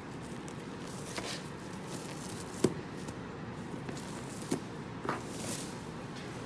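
Steady room noise with a few soft, sharp clicks, as of small objects being handled.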